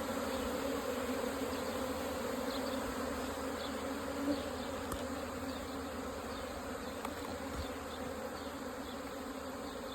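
A dense swarm of honeybees from an agitated, defensive hive buzzing around the hive entrance: a steady, continuous hum.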